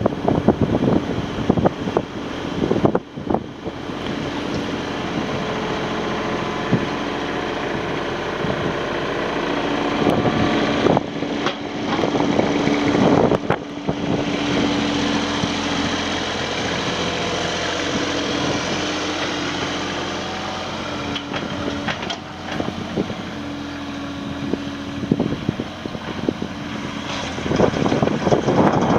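Kubota RX-306 mini excavator's diesel engine running steadily, its note shifting now and then as load comes on, with a few brief knocks, one near the start and a couple around the middle.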